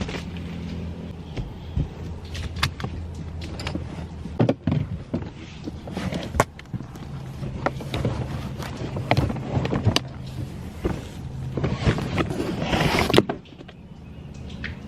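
Items being moved and handled inside a car: a string of knocks, clicks and rustles, with a louder stretch of rustling about twelve seconds in, over a steady low hum that stops shortly before the end.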